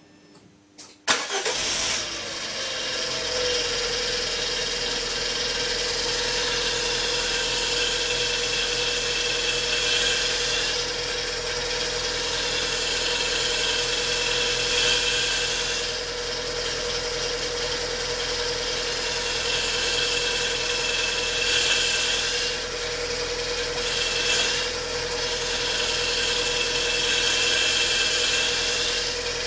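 Car engine starting about a second in, then idling with a steady whine and a higher-pitched noise that comes and goes several times: the sound of a bad clutch release bearing.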